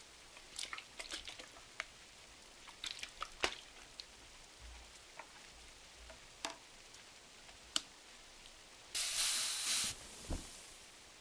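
Wood-burning fire crackling with scattered sharp pops over a faint steady hiss of rain. About nine seconds in comes a rustle of paper lasting about a second, like a page being turned, followed by a soft thump.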